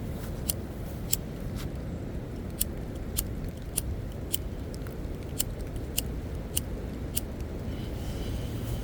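Footsteps crunching in an even walking rhythm, one crisp step about every half second, over a steady low rumble of wind on the microphone.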